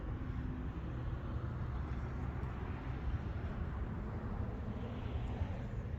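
Steady outdoor background noise, a low rumble with an even hiss above it and no distinct events.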